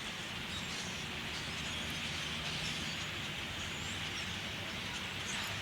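Steady outdoor background noise, an even hiss, with a few faint high chirps near the end.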